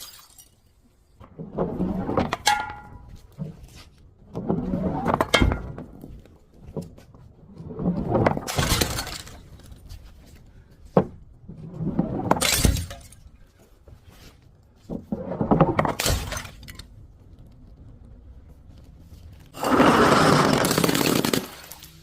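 Glass bottles smashing one after another: about seven separate crashes a few seconds apart, some with a brief glassy ring, the last one longer at about two seconds.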